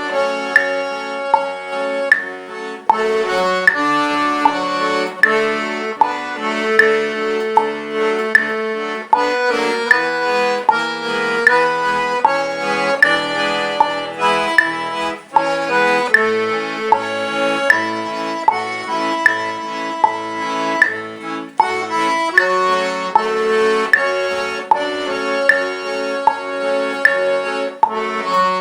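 Solo accordion (sanfona) playing a forró melody in A major at a slow tempo, about half the song's usual speed, with the treble melody over a steady alternating bass-and-chord accompaniment.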